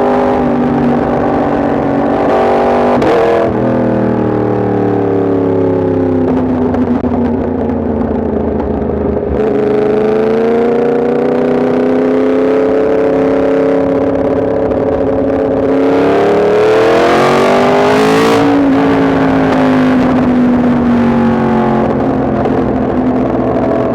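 Yamaha MT-10 SP motorcycle's crossplane inline-four engine riding along, the engine note rising and falling with the throttle. There are breaks like gear changes about 3, 9 and 18 seconds in, and the pitch falls as it slows after the last one.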